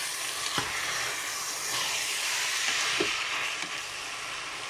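Chopped vegetables, meat and tomato paste sizzling steadily as they fry in an open multicooker bowl, stirred with a wooden spatula that knocks lightly against the bowl twice.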